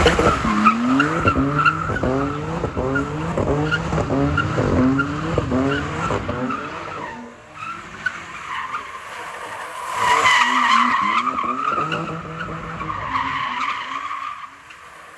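A car doing donuts: its engine revs up again and again in quick rising sweeps while the tyres squeal. After a short lull about seven seconds in, the tyres squeal loudly again, then fade away near the end.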